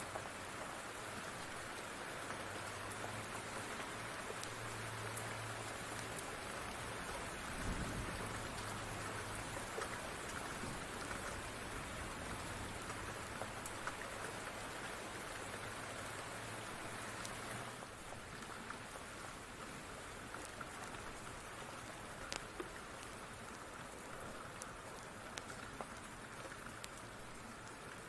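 Steady rain with scattered sharp pops from a crackling wood fire. A faint low hum runs until about two-thirds of the way through, and there is a brief low thud about eight seconds in.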